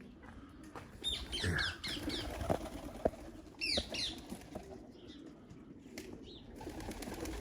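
A parakeet calling from a tree: shrill, sweeping calls in two groups, about a second in and again near four seconds.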